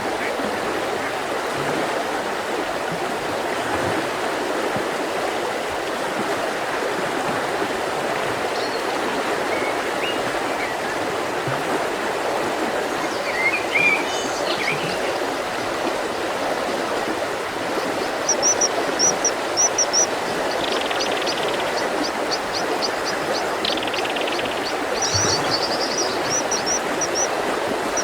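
Mountain river flowing steadily. Birds sing over it: a few chirps around the middle, then, from about two-thirds of the way in, quick runs of short, high repeated notes.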